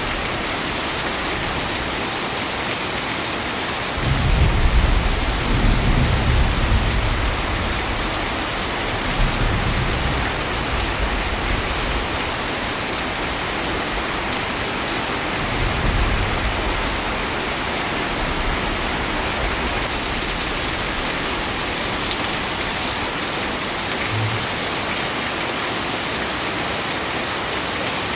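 Steady heavy rain with thunder: a rumble of thunder breaks in suddenly about four seconds in and rolls for several seconds, and a second, weaker roll comes about halfway through.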